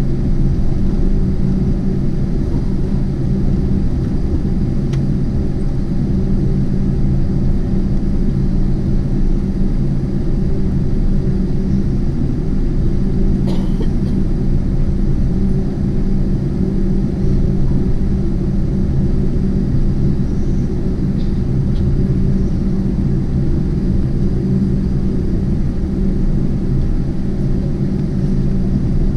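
Steady low rumble inside the cabin of a Boeing 747-8 on the ground after landing, its engines and cabin air running, with a few steady hum tones. A faint click about halfway through.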